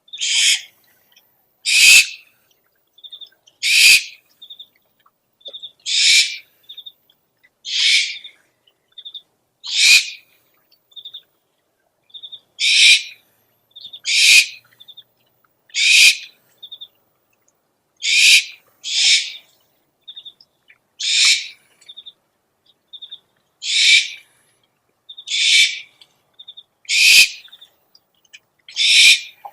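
Owl lure recording: a hoarse screeching call repeated about every two seconds, with short high piping notes, often in pairs, between the screeches.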